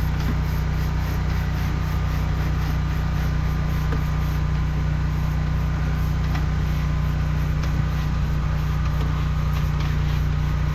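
Engine of a high-pressure drain jetter running steadily at a constant speed with a low hum.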